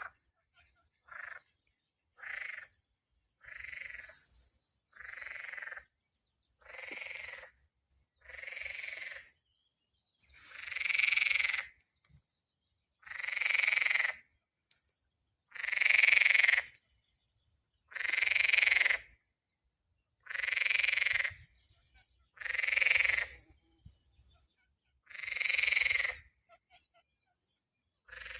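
A frog crying out again and again: about fourteen drawn-out calls, the first ones short and quick, the later ones longer, louder and spaced about two and a half seconds apart.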